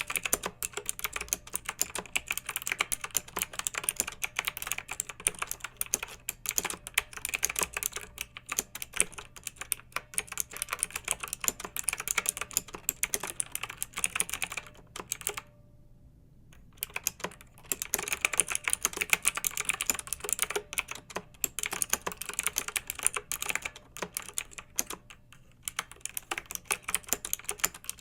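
Fast, continuous typing on a clicky mechanical keyboard, with a pause of about two seconds a little past halfway.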